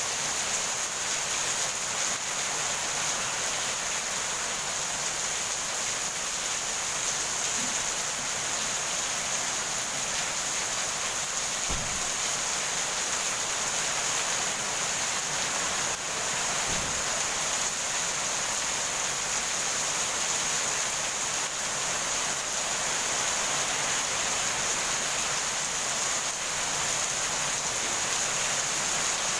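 Heavy rain falling steadily, a dense even hiss. Two brief low thumps come about twelve and seventeen seconds in.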